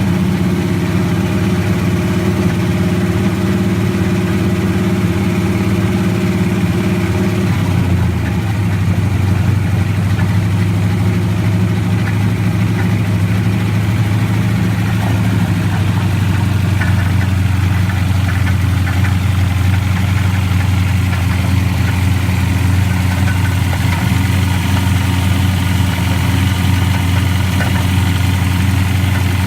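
Car engine idling steadily, recorded for the knocking noise it makes. The idle drops a little lower about seven or eight seconds in.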